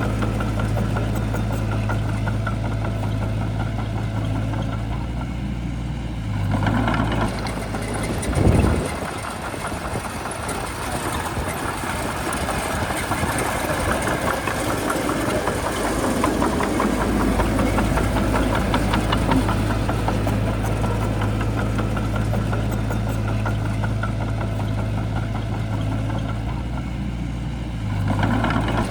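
Shantui crawler bulldozer's diesel engine running steadily, with a short loud thump about eight seconds in. A rougher, noisier stretch follows for several seconds before the engine steadies again.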